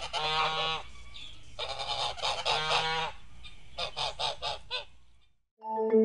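Domestic goose honking repeatedly, in three bursts of honks that fade out a second before the end.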